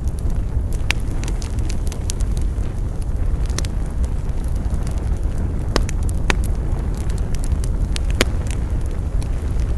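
Wood fire burning with a steady low rumble and irregular sharp crackles and pops, a few standing out clearly among smaller ones.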